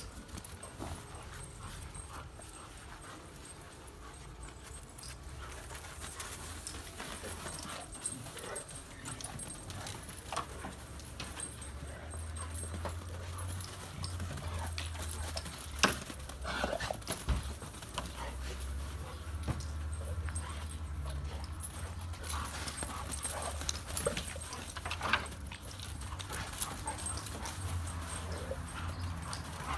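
Dogs playing: scattered thumps, scuffles and paw clicks over a low steady rumble.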